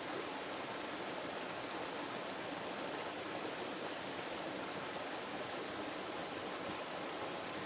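River water flowing and rushing steadily, an even noise without splashes or breaks.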